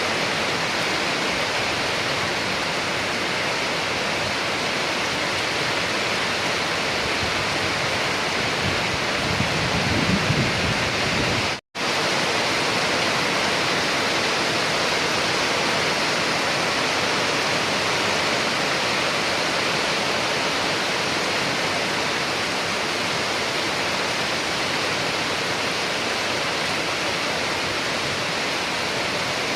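Steady heavy rain falling, an even hiss. A brief low rumble swells about ten seconds in, and the sound cuts out for an instant just before twelve seconds, like a splice in the recording, then carries on unchanged.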